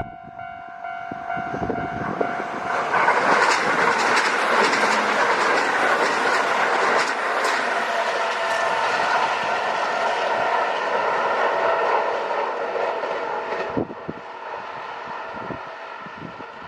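Kintetsu Nagoya Line electric train passing a level crossing: a loud rush of wheels and motors with the clack of wheels over rail joints. It builds about three seconds in and drops away sharply near the end. A level-crossing bell rings steadily underneath throughout.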